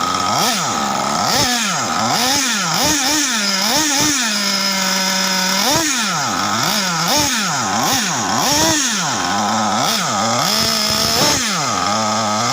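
Nitro RC car engine revving up and down over and over, its pitch climbing and dropping in quick arcs, with a couple of short steady stretches at a lower pitch between the revs.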